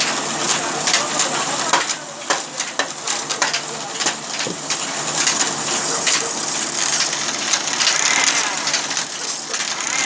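Sawmill machinery running with a steady hum and noise, broken by irregular clattering knocks.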